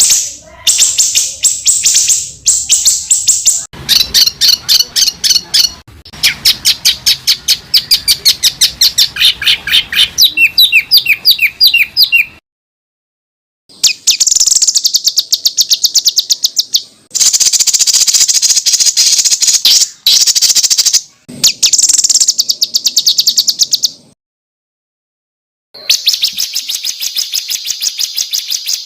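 Songbird song in rapid runs of sharp, high repeated notes, several to about ten a second. The stretches are a few seconds long and are broken twice by sudden gaps of complete silence where separate recordings are spliced together.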